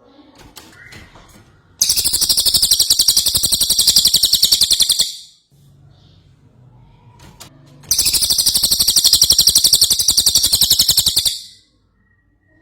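Cililin bird singing: two loud, long trills of very rapidly repeated high notes, each lasting about three seconds, with a short pause between them.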